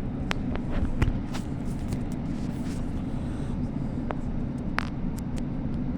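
Passenger train running at steady speed, a constant low rumble of wheels on rail, with a few sharp clicks and rattles.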